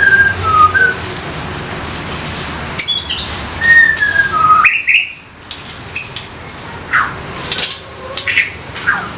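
Young wild-caught white-rumped shama calling: short whistled notes that glide downward, a pair of quick rising notes, and a scatter of sharp clicking call notes.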